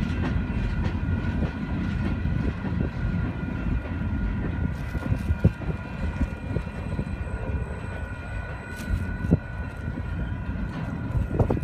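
Train rolling past on the rails: a steady low rumble with a few sharp clicks and faint steady high tones above it.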